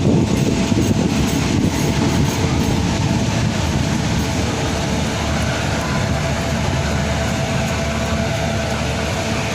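Passenger train running along the line: a steady rumble and rush of the carriage on the rails.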